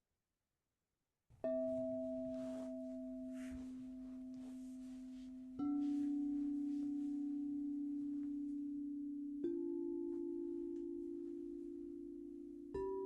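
Crystal singing bowls struck one after another, four times, starting about a second and a half in. Each gives a pure, steady ringing tone that fades slowly, each a step higher in pitch than the one before, with the earlier bowls still sounding underneath.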